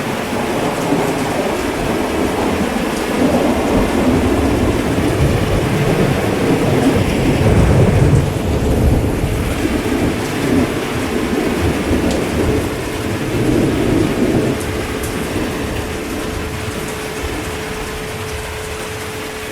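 Steady heavy rain with rolling thunder rumbling underneath. The thunder swells loudest about eight seconds in and again a little later, then eases off toward the end.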